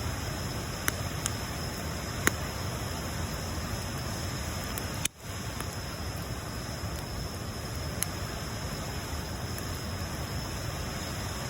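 Bonfire burning: a steady hiss with a few sharp crackling pops of the wood, and a brief drop in sound about five seconds in.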